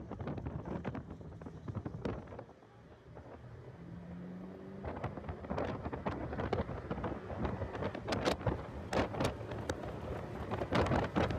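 Heavy wind buffeting on the microphone of a car at speed on a race track, crackling and rumbling. The buffeting eases about two seconds in, letting a steady engine note through, then builds again.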